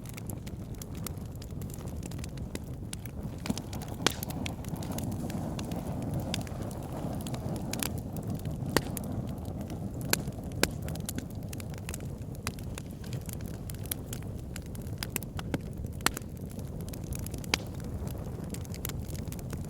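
Wood fire burning in a fireplace: a steady low rumble of flames with irregular sharp crackles and pops of burning logs, a few of them louder.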